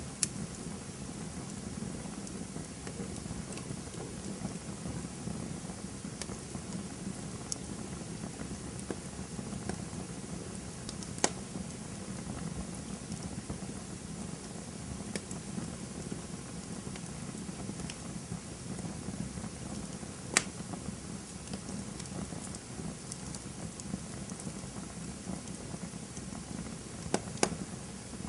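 Campfire burning: a steady low rush of flames with scattered sharp crackles and pops from the burning wood, a few louder snaps about 11, 20 and 27 seconds in.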